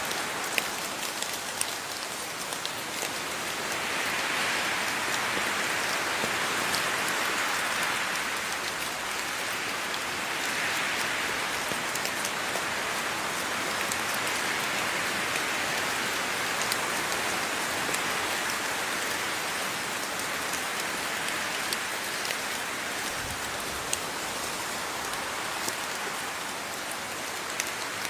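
Steady rain falling, a continuous hiss that swells and eases slowly, with scattered sharp ticks of individual drops striking a surface.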